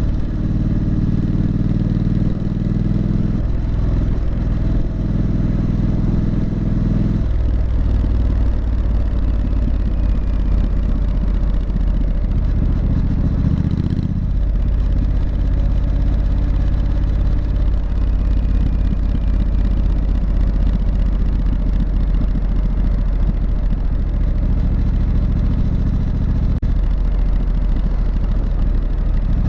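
Triumph Street Scrambler's 900 cc parallel-twin engine running through its exhaust, with the engine note stepping to a different pitch a few times.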